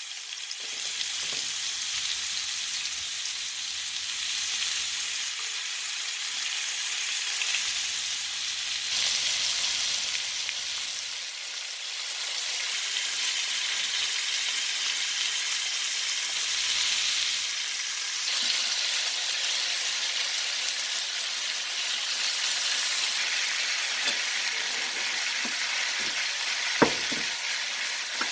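Tomatoes frying in olive oil in a pan: a steady sizzle throughout, with one sharp click near the end.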